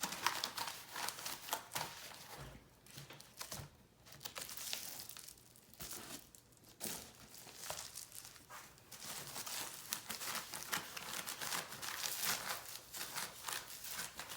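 A cleaning wipe being rubbed over the AirPods box, with irregular rustling and crinkling of the wipe and packaging, pausing briefly now and then.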